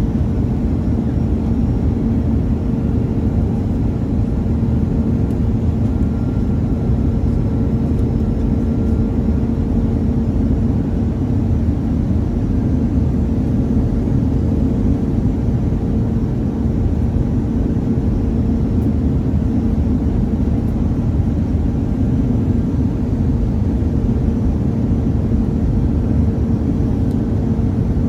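Airbus A319 cabin noise: a steady low rumble of engines and airflow, with a constant hum running through it.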